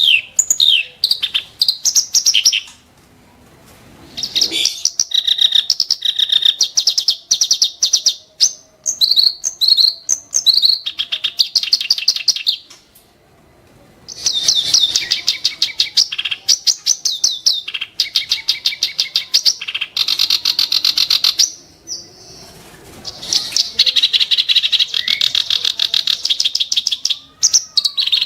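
Kerak basi (a reed warbler) singing in long runs of rapid, sharp, harsh repeated notes. The runs break off briefly a few times.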